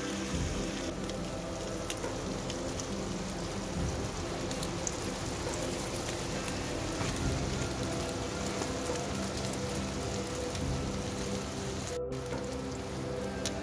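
Bacon, square sausage, black pudding and tattie scones sizzling in a hot steel frying pan, a steady crackling hiss.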